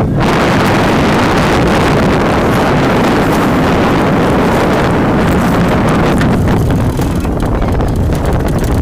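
Loud, steady wind buffeting the microphone aboard a racing sailboat, with a heavy low rumble; it eases slightly about seven seconds in.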